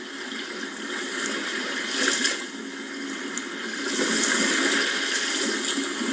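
Sea waves washing onto the shore: a rushing surf noise that swells and falls, with a short surge about two seconds in and a longer, louder wash from about four seconds.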